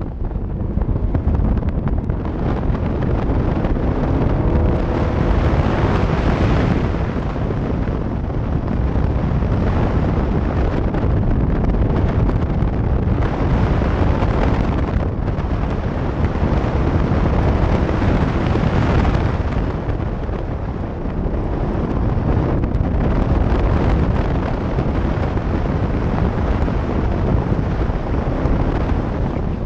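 Sports car driven hard through an autocross course, its engine revving up and easing off every few seconds, under heavy wind buffeting on the outside-mounted microphone.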